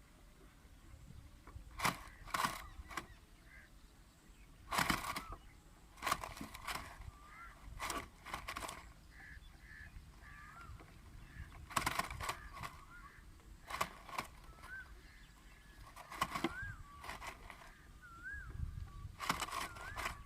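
Myna calling with short, harsh, raspy squawks in clusters every couple of seconds, and soft rising whistles between them.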